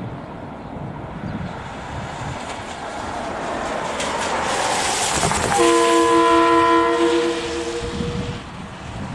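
An approaching train grows louder, then its horn sounds one long blast a little past halfway, a steady multi-note chord lasting about two and a half seconds.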